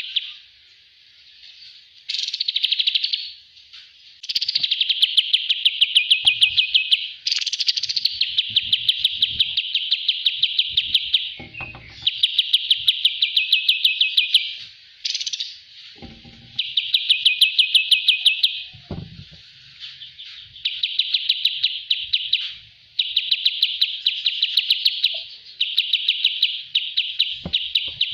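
Kapas tembak bird singing a song for training cage birds: long, rapid trilled phrases of one to three seconds each, repeated over and over with short breaks between.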